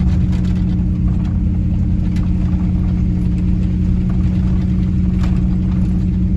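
Four-wheel-drive pickup truck's engine running steadily at low speed as the truck eases up a climb, heard from inside the cab as a steady low drone, with a few faint clicks.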